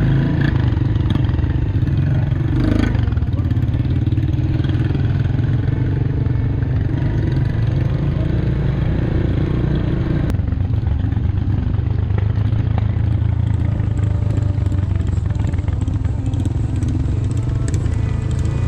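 Motorcycle engine running steadily under way, a constant low drone.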